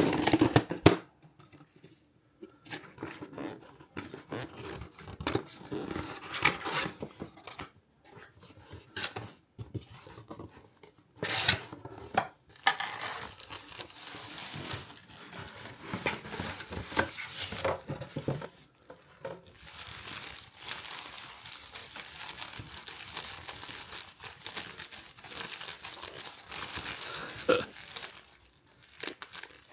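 Packaging being handled and opened: cardboard box and wrapping torn and crinkled in irregular rustling bursts, with scattered knocks and scrapes, busiest in the second half.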